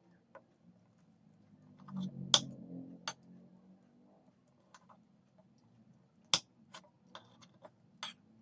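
Scattered light clinks and taps of dishes and utensils, the loudest about two and a half seconds in and again a little past six seconds.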